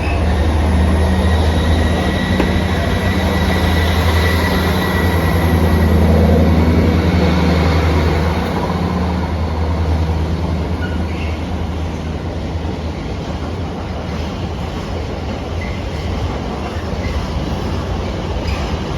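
Freight train passing through a station: a heavy, steady low rumble of the train rolling by, easing off after about eight seconds, with a faint, thin high wheel squeal over it.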